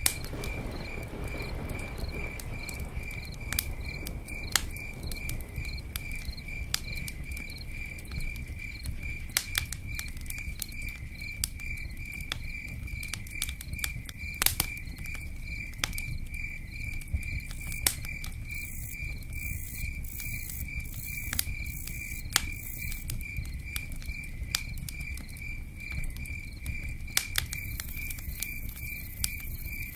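Cricket chirping in a steady, even pulse throughout, over a low rush, with scattered sharp pops and crackles from a campfire.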